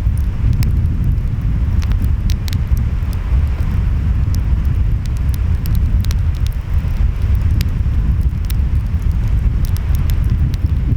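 Wood fire crackling, with sharp pops scattered irregularly, over a steady low rumble of ocean waves and wind.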